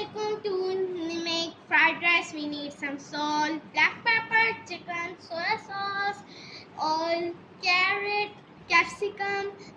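A child's voice singing a short tune, with held notes broken by brief pauses.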